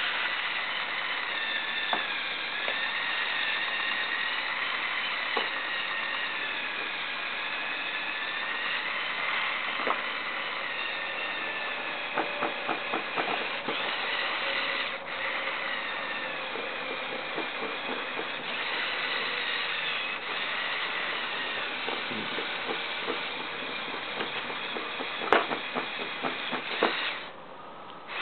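Small electric motors and plastic gearing of a Lego Technic truck running, with a whine that wavers up and down in pitch as the load changes. There are runs of rapid plastic clicking in places. The motor sound cuts out briefly near the end.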